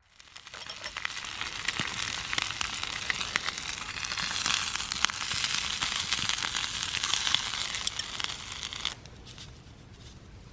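Crackling and hissing from the Takibee compact fire pit in use, with many sharp pops. It starts suddenly and cuts off about nine seconds in.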